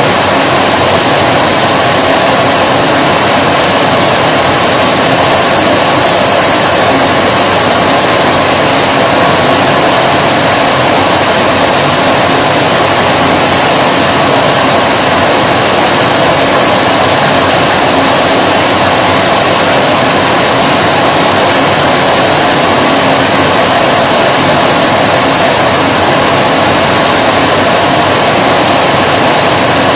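Vacuum cleaner running steadily, a loud, even whooshing hum of motor and air with no change in pitch.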